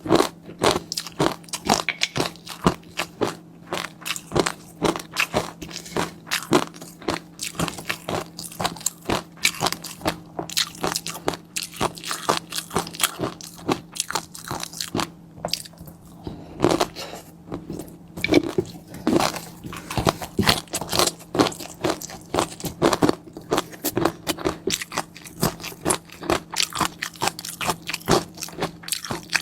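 Close-miked mouth sounds of a person eating: rapid, dense crackling and crunching chews with a break in them about halfway through, over a faint steady low hum.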